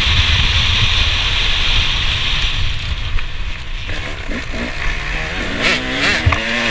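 KTM 250 SX two-stroke motocross engine under way, with wind rushing over the microphone for the first couple of seconds, then the revs rising and falling in quick swells from about four seconds in.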